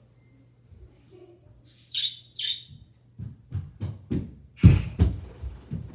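Pet bird giving two short, high chirps about two seconds in, followed by a run of low thumps and knocks that grow louder toward the end.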